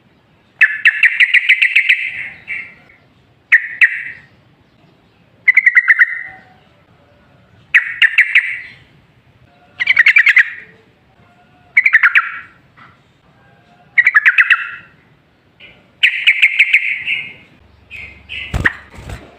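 Yellow-vented bulbul (trucukan) singing: a loud, bubbly phrase of quick notes repeated about every two seconds. A sharp click comes near the end.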